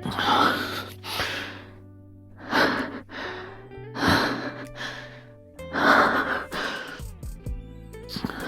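Heavy breathing, several loud breaths in and out, often in pairs, over soft sustained background music.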